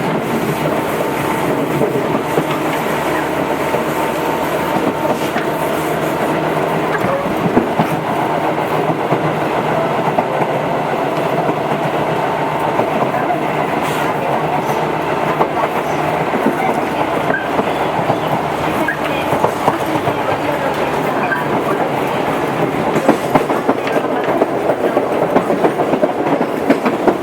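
Tobu 8000 series electric train running along the line: a steady rumble of wheels on rail and motor hum, with rail-joint clickety-clack. The clicks come thicker near the end.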